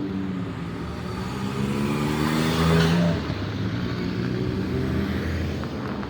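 Car engines revving as cars drive out past one after another; one engine climbs in pitch and passes close about three seconds in, then fades as another runs steadily behind it.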